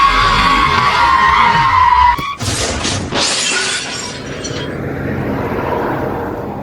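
Tyre screech for about two seconds, cut off by a loud crash with several crunching, shattering impacts that then fade away.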